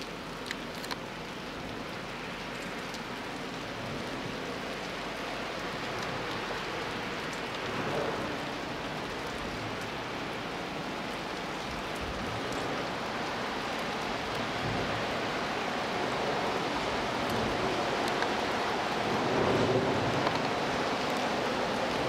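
Steady rain falling: an even hiss, with a few sharp drops ticking near the start, growing slowly louder toward the end.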